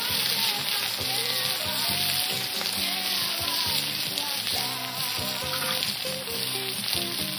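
Chicken sausages, potatoes and onions sizzling steadily as they fry in a wide pan over a wood fire. Background music plays underneath.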